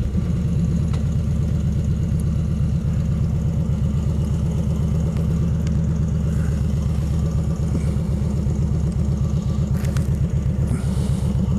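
Kawasaki Vulcan 2000's large V-twin engine idling steadily with an even low, loping beat.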